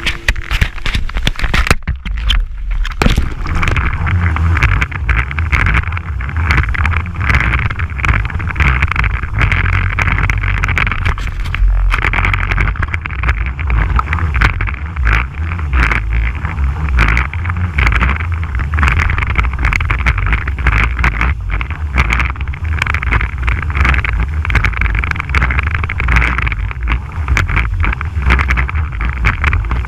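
Yamaha Superjet stand-up jet ski's two-stroke engine running hard on the river, mixed with water spray and wind buffeting the microphone.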